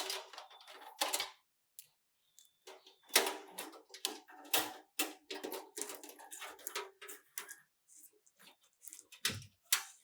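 Irregular clicking and clattering of hands working on a desktop PC's hardware, with a dull thump near the end.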